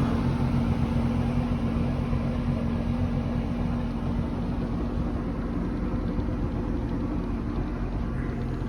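A 26-foot Rendezvous boat's engine idling steadily, a low even drone with a strong low hum.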